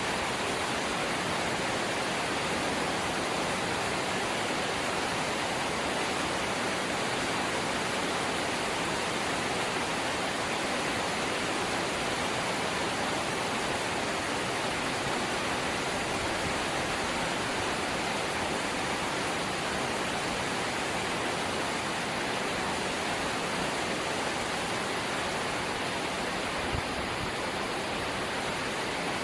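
Steady light rain: an even, unbroken hiss of falling drops, with one faint tick near the end.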